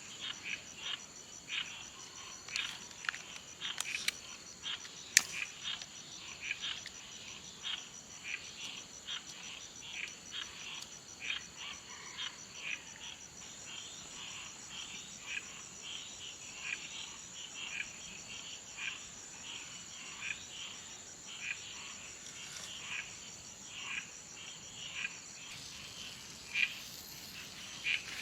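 Frogs calling in short, irregular notes over a steady, high, fast-pulsing insect trill. A couple of sharp clicks come about four and five seconds in.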